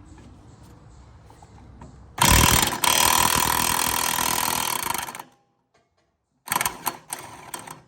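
Impact wrench hammering for about three seconds, then several short bursts near the end, working loose a mower-deck blade spindle nut.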